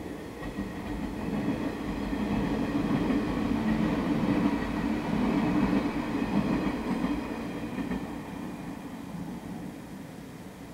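A yellow electric multiple-unit commuter train passing on the line, its running noise swelling over a few seconds, loudest mid-way as it goes by, then fading away.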